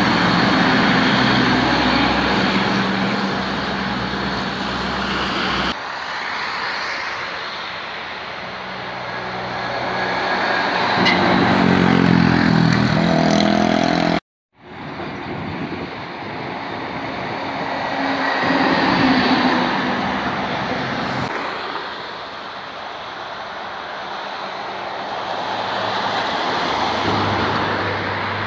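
Heavy diesel trucks driving by with their engines running, the sound swelling and fading as each goes past. It changes abruptly several times, with a brief dropout about halfway through.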